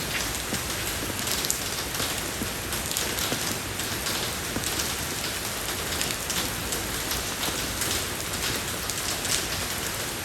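Steady rain falling on a road surface: a dense, even hiss with many small drop ticks.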